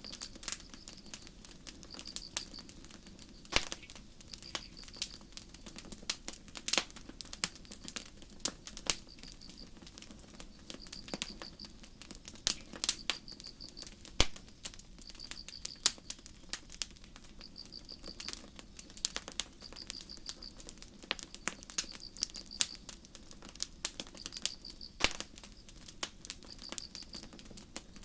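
Campfire crackling with irregular sharp pops and snaps, under crickets chirping: short trilled chirps repeating steadily about every second and a half.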